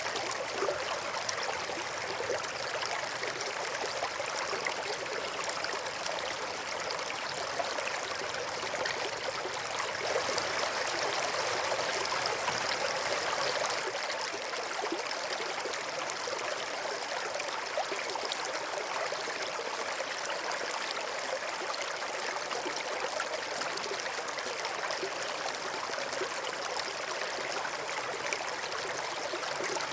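A small stream flowing steadily: a continuous, even rush and trickle of running water.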